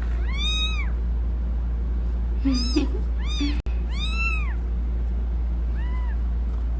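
Newborn kittens mewing: about five short, high-pitched cries, each rising and falling in pitch, spaced irregularly, the last one faint.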